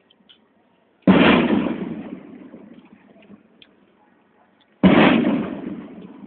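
Two loud firecracker bangs about four seconds apart, each echoing and dying away over a second or so.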